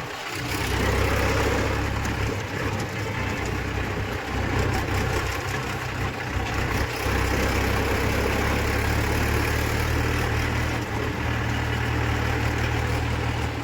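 Tractor diesel engine running steadily, a low even hum with a brief dip near the start and another around the middle.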